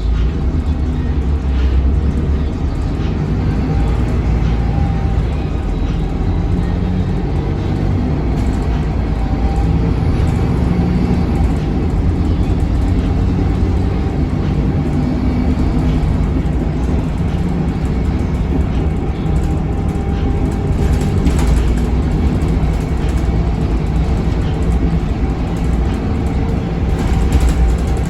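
Scania K280UB city bus with its DC9 five-cylinder diesel and ZF Ecolife automatic transmission, heard on board while driving: a steady low rumble with a faint whine over it.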